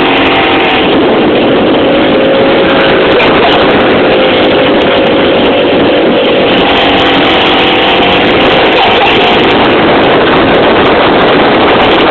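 Small fishing boat's motor running steadily: a loud, even noise with a faint wavering hum.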